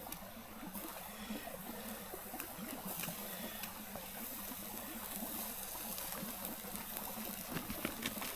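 A stream flowing steadily, with a few faint clicks.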